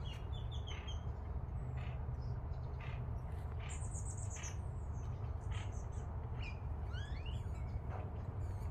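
Several songbirds chirping and calling in short, high notes, with one bright falling whistle about four seconds in and a rising call near the end, over a steady low rumble.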